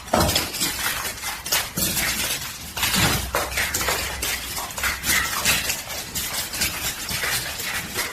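Rapid, irregular clattering and knocking, with hard objects striking and rattling against each other.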